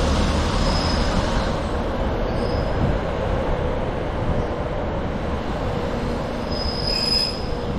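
Northern diesel multiple unit moving slowly at the platform, a continuous rumble under a steady running tone, with short high squeals about a second in, at about two and a half seconds, and again near the end.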